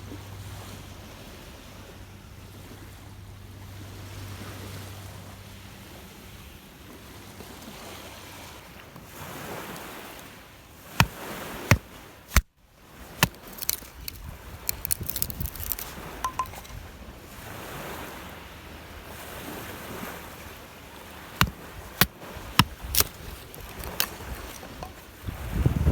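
Rough lake waves washing onto the shore in strong wind, a steady rushing noise, with a brief cutoff about halfway through. Several sharp clicks and knocks come in the second half.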